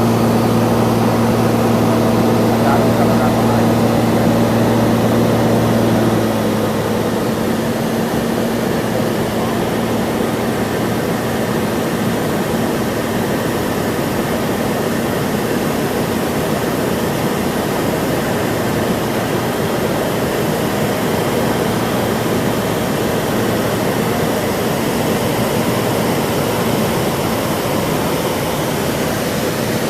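Cessna 182's piston engine and propeller droning steadily in flight. A steady low hum for about the first six seconds, then the sound gets a little quieter and settles into an even, rushing drone.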